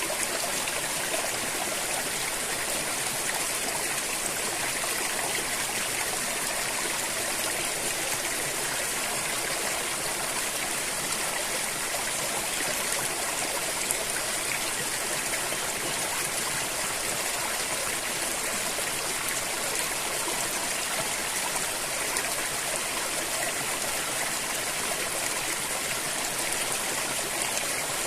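River water flowing over rocks, a steady, even rush of water with no breaks.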